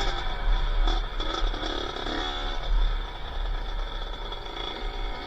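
Kawasaki KX80 80cc two-stroke single in a Honda XLR80R trail bike, running off-road with its revs rising and falling as it is ridden, with heavy wind rumble on the helmet microphone.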